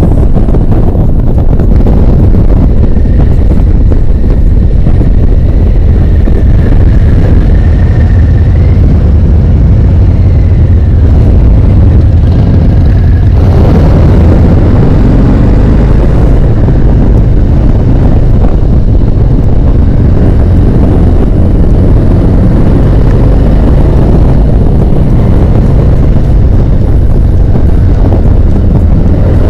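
Harley-Davidson V-twin motorcycle riding along, its engine a loud, steady low rumble.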